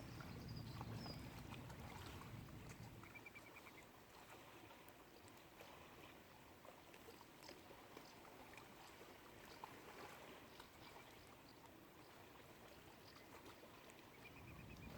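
Near silence: faint outdoor ambience, with a low rumble in the first couple of seconds and again near the end, and a few brief, faint bird trills.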